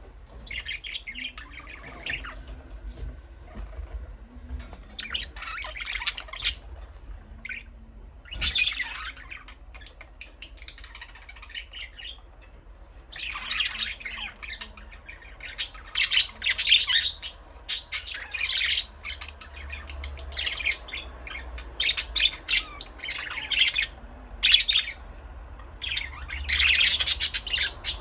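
Budgerigars chirping and chattering in quick bursts of high, warbling squawks and tweets, coming in clusters with short pauses between.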